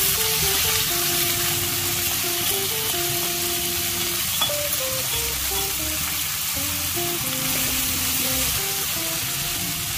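Wet sprouted green gram (mung beans) poured from a steel colander into hot oil in a wok, sizzling steadily as a steel spoon stirs them, with a small click about four and a half seconds in. A simple background melody plays underneath.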